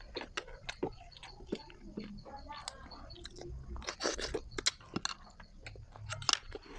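Close chewing and biting of grilled street food pulled off bamboo skewers, with many short irregular clicks and crunches.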